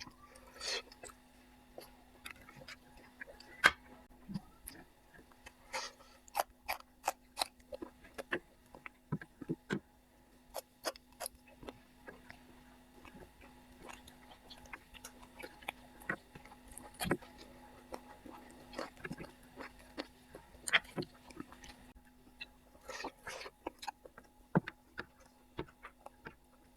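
Close-up eating sounds from a chicken curry and noodle meal: irregular wet chewing, smacking and crunching, with a steady low hum underneath.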